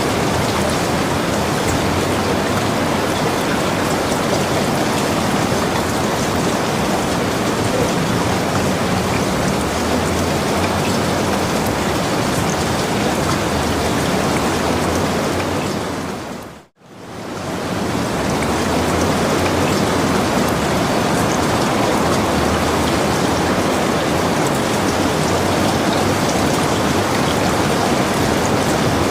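Steady, even rainfall. About two-thirds of the way through it fades out to near silence for a moment, then fades straight back in.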